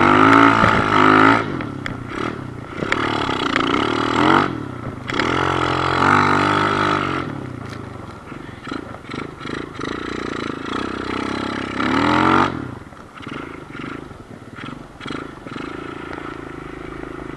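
2008 Kawasaki KLX110 pit bike's small four-stroke single-cylinder engine being ridden. It revs up sharply several times and eases off in between.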